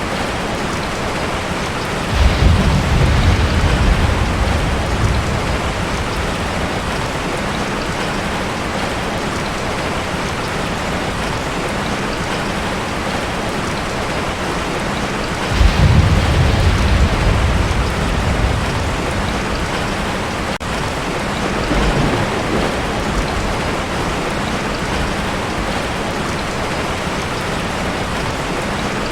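Heavy rain falling steadily on a tin roof, with thunder rumbling three times: two loud rolls lasting a few seconds each, one early and one about halfway, and a fainter one later.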